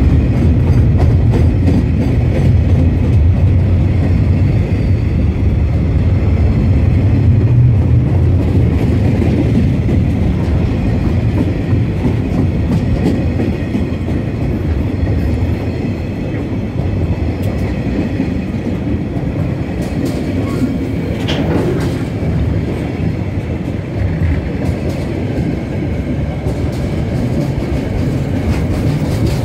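KiwiRail freight train's wagons rolling past close by, a steady low rumble, loudest in the first third and easing a little as the empty flat wagons go by. A brief high-pitched squeal about two-thirds of the way through.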